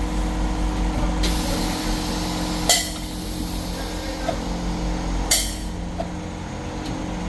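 Tyre changing machine working on an alloy wheel: a steady hum with two short bursts of air hiss, about two and a half seconds apart.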